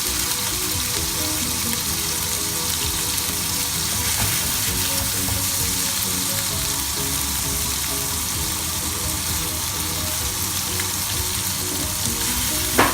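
Mutton-mince kebabs shallow-frying in oil in a pan: a steady sizzle, with a sharp knock near the end.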